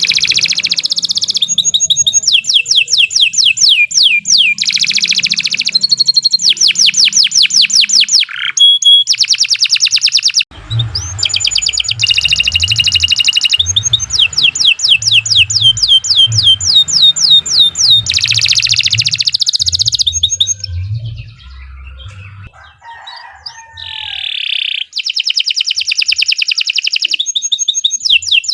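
Domestic canary singing a long song of rapid trills, each a quick run of repeated notes sliding downward in pitch, with brief breaks and a softer lull about three-quarters of the way through before the trills resume.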